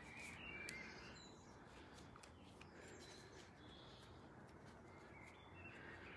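Near silence: faint room tone with a few scattered, faint bird chirps.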